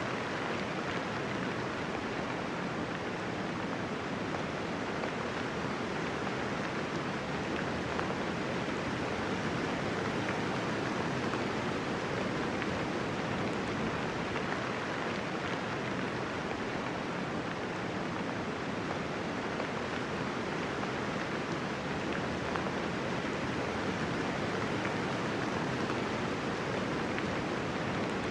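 Steady light rain falling, an even hiss of raindrops with no thunder.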